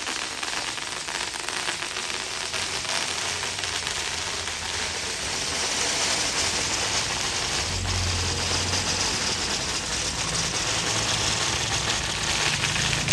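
Scania K410 coach's diesel engine running under a dense, rapid crackling; the engine's low hum grows louder about eight seconds in and rises in pitch near the end.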